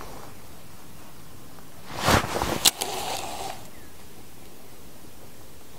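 Steady faint outdoor background with a brief rustle about two seconds in, followed by a sharp click.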